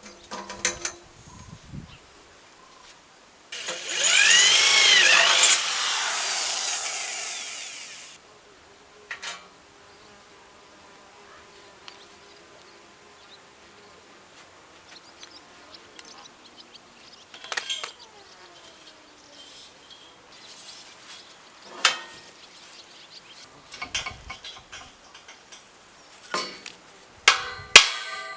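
A power tool runs loudly for about four and a half seconds, starting about three and a half seconds in and stopping abruptly. Scattered knocks and clicks of tools and parts being handled follow.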